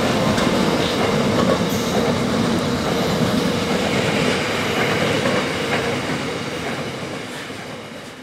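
A train running on the rails, a steady rumbling noise that fades out over the last few seconds.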